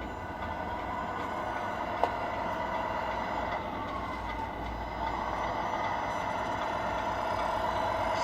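Radio-controlled Tamiya model truck running: a steady mechanical whine made of several held tones that drift slightly in pitch, with one sharp click about two seconds in.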